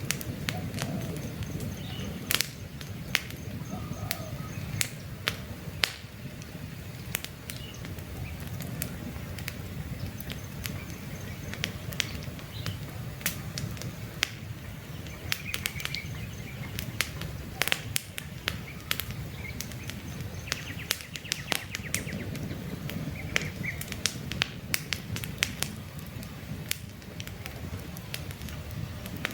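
Wood campfire crackling, with frequent sharp pops over a low steady rush of burning. Faint bird chirps come through now and then.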